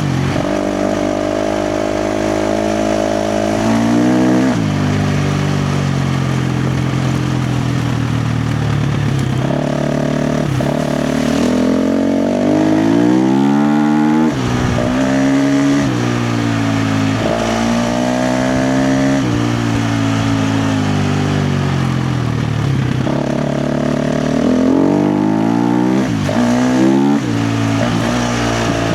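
KTM 350 XC-F dirt bike's single-cylinder four-stroke engine ridden hard off-road, its revs climbing and falling over and over as the throttle is opened and shut.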